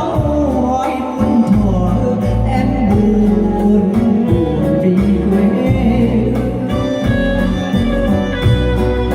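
Vietnamese ballad: a voice singing over instrumental backing with a pulsing bass line.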